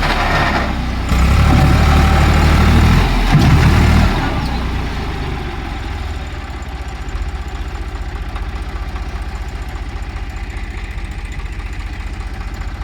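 Eicher 5660 tractor's diesel engine running loud and hard for about four seconds, then dropping back to a steady idle.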